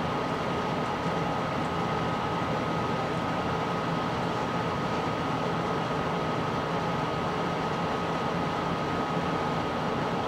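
Steady background hiss and hum with a constant thin high tone, unchanging throughout.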